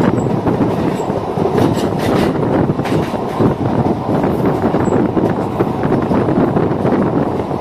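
MEMU electric train running along the track: a steady rumble of wheels on rail, with a few sharper clacks about two seconds in.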